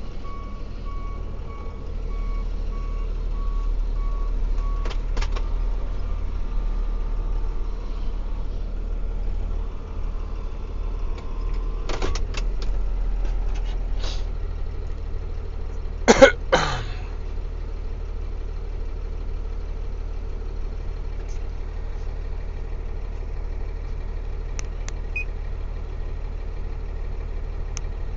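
Diesel truck engine running with a low rumble, while a backup alarm beeps steadily for the first five seconds. Scattered clicks follow, then two loud knocks about sixteen seconds in.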